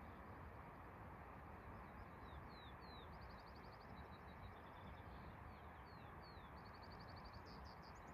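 Faint songbird singing: a few downward-slurred whistled notes and two quick trills, over a steady low hiss.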